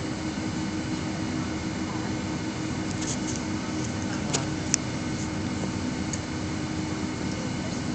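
Steady airliner cabin noise before takeoff: a low hum from the engines and air conditioning. Two sharp clicks come a little past the middle.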